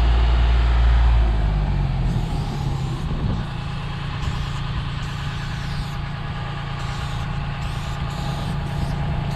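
A heavy engine running steadily, with a loud low rumble that eases about a second and a half in, leaving a steady hum.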